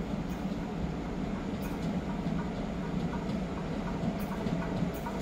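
Freight train rolling past: a steady rumble of wagons on the rails, with scattered faint clicks.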